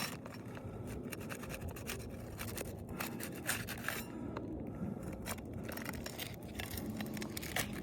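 Brittle asphalt roof shingles being scraped and pried loose, their sealed tabs being broken free, with a steady rough scraping and many small clicks and crackles.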